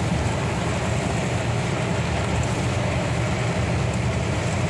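Steady drone of a MAN TGA truck's diesel engine and road noise heard from inside the cab while driving, an even low rumble with a hiss above it.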